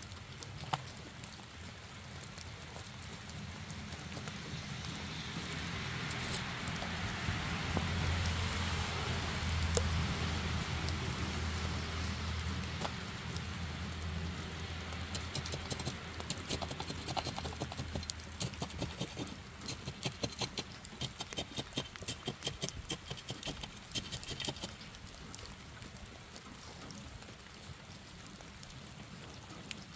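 Light rain pattering. Over the first half a low rumble swells and fades away, and after the middle comes a run of quick, irregular ticks.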